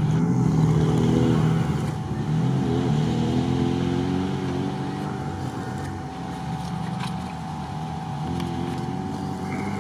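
Off-road SUV engines revving unevenly as they race along a bumpy dirt track. The sound is loudest in the first two seconds, then fades as a vehicle pulls away, and the revs climb again near the end.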